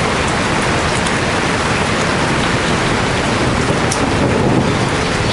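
Heavy rain falling in a steady downpour, a dense even hiss, swelling slightly about four seconds in.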